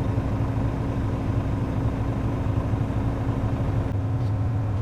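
Steady low engine rumble with a constant drone, idling and unchanging.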